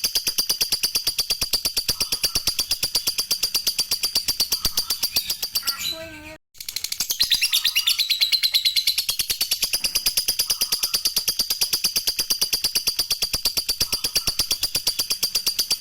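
Lovebird chattering in a long ngekek trill: a very fast, unbroken run of repeated high notes, cut off briefly about six seconds in before it starts again.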